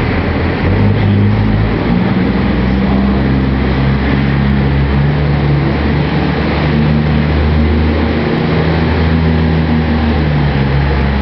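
Pulling truck's engine running hard under load while dragging a weighted pull sled, its note stepping up and down several times over a continuous loud rumble.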